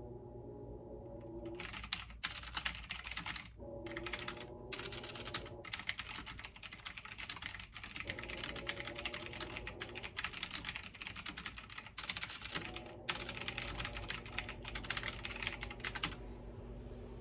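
Rapid typing on a computer keyboard in long runs of keystrokes with a few brief pauses. It starts about a second and a half in and stops about a second before the end, over a low steady hum.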